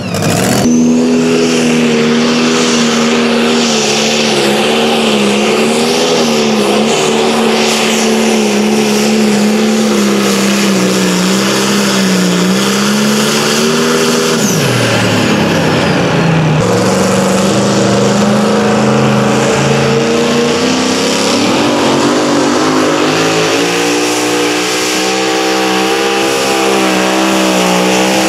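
Competition pulling vehicle's engine running at high revs under heavy load during a hook down the track. The engine speed wavers, sags briefly about halfway through, climbs again, then falls off right at the end as the run finishes.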